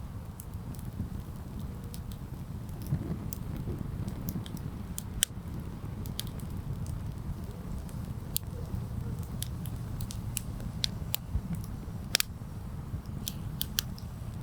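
Wood campfire crackling, with sharp pops scattered irregularly, the loudest about five and twelve seconds in, over a steady low rumble.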